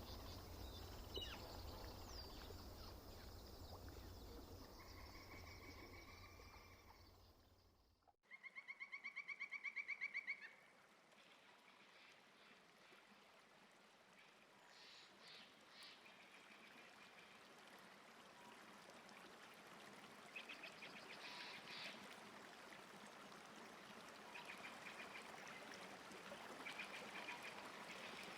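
Faint lakeside ambience with bird calls. After a sudden cut about eight seconds in, one loud, rapid series of pulsed calls lasts about two seconds. Quieter repeated calls and a soft hiss of water follow.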